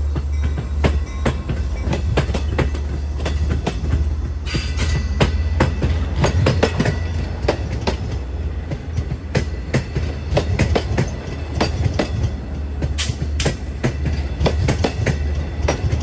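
LIRR bilevel passenger coaches rolling past at close range: a steady low rumble with a rapid, irregular run of wheel clicks over the rail joints.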